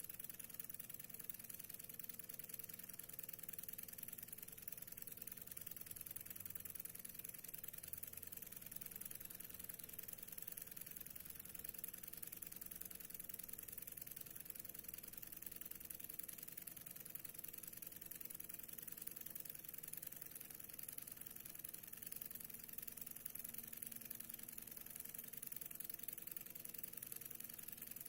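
Stirling engine running smoothly, a faint, steady mechanical hum with no change in pace.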